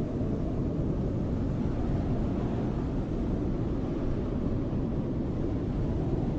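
Snowstorm wind blowing steadily, a dense low whoosh with little high end and no gusts rising or falling.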